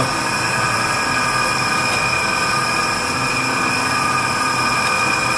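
Electric meat slicer running steadily, a constant motor hum and whine with a high steady tone, as turkey-breast ham is cut into thin 0.8 mm slices.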